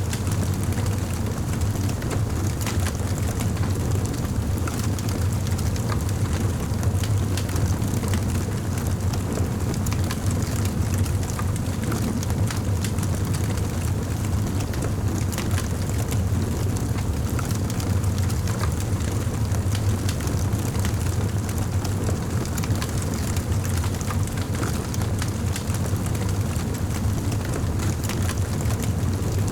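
Wood fire in a fireplace crackling, with many small irregular pops and snaps over a steady low rumble of the burning fire.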